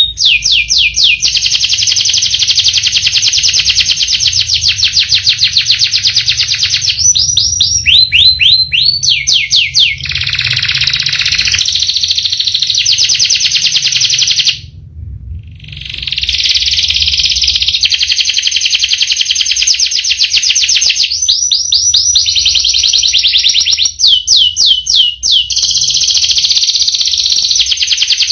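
Domestic canary singing long, fast rolling trills almost without a break. It stops for about a second and a half midway, then carries on rolling.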